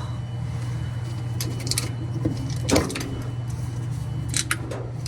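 Clicks and a sharp knock of metal parts and tools as a stuck splutch and drive motor are worked loose from a Maytag Bravos washer's drive, over a steady low hum.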